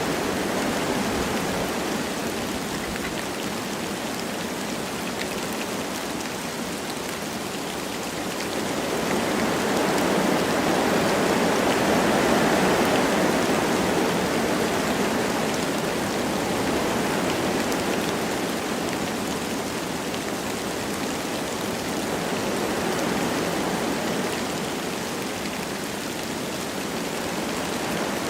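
Wind blowing through forest trees with light rain falling, a steady rushing that swells and eases in slow gusts, strongest about twelve seconds in, with faint raindrop patter.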